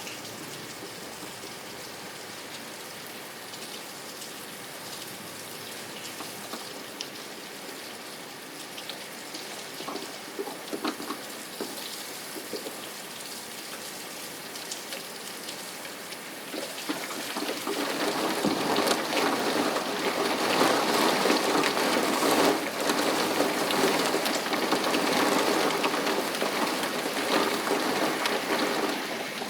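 Steady rain falling, with scattered individual drops ticking, growing heavier about seventeen seconds in.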